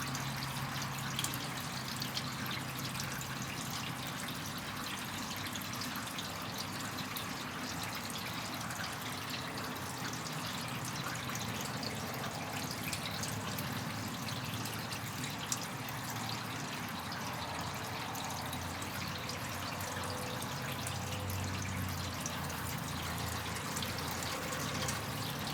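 Slow, steady rain falling, with many small drips pattering. A faint low hum rises underneath near the start and again past the middle.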